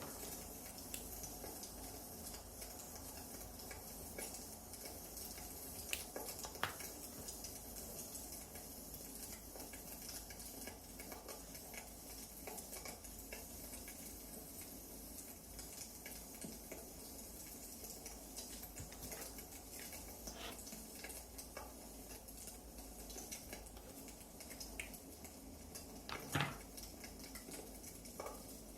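Wood fire crackling in a fireplace: a steady hiss with scattered small crackles and a few sharper pops, the loudest about 26 seconds in.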